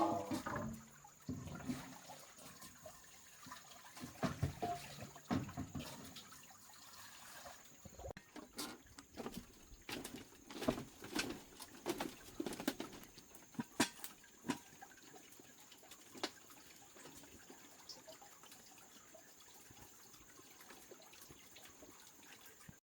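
Water splashing and dripping in irregular small bursts, with light knocks, busiest in the middle and thinning out near the end.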